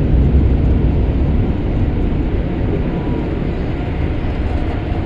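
Automatic car wash equipment heard from inside the car: a steady low rumble and rush that slowly eases off.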